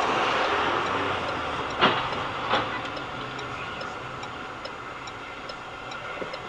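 Vehicle road noise that slowly fades, with two sharp knocks about two seconds in and a faint regular ticking.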